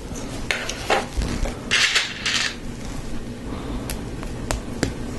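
Plastic Lego Technic pieces clicking and rattling as they are handled and fitted together, with a few sharp clicks and a brief louder rattle about two seconds in.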